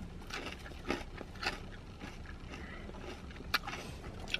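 A person chewing food with the mouth closed, giving a few short, crisp crunches spaced irregularly.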